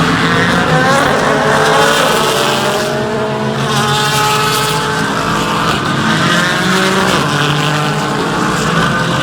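Several race car engines running hard on track at once, their pitch rising through the gears and falling away as the cars pass.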